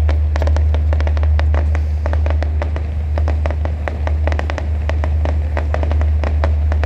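Fireworks display crackling and popping, a rapid series of sharp reports several a second, over a steady low hum.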